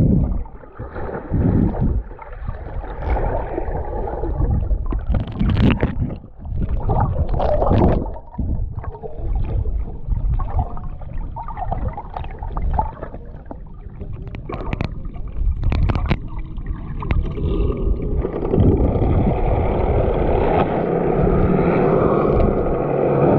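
Water splashing and wind rumbling on the microphone around jet skis in shallow water. About three-quarters of the way through, a steady engine drone sets in.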